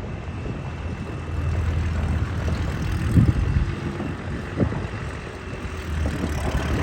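International Harvester 706 tractor engine running steadily in a low rumble, with two brief thumps near the middle.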